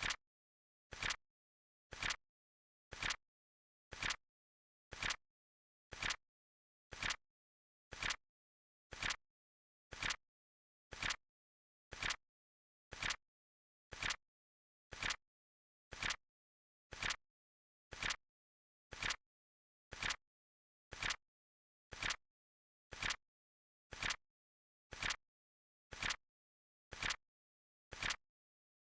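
Flip clock flip sound effect, one quick double click every second as the countdown flips: a soft click followed at once by a louder one.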